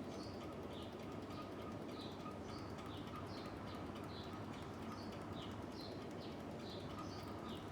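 Albany ceiling fan running with a steady hum and a short high squeak repeating evenly about two to three times a second, alternating slightly in pitch: a dry squeak that the owner means to cure by oiling the fan.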